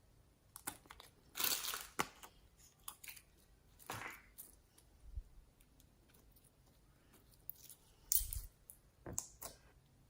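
Homemade slime being worked by hand: irregular sticky crackles and squishes, the loudest about a second and a half in and again near the end.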